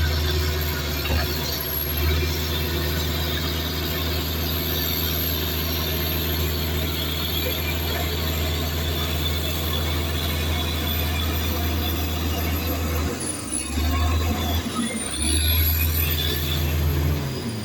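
Heavy earthmoving machine's diesel engine running steadily under load, with a thin high-pitched whine above it. The engine note drops away briefly twice near the end.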